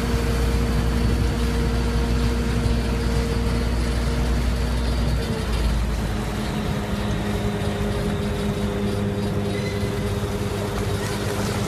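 An engine running steadily with a low hum; about five seconds in its pitch drops slightly and the deep rumble eases off.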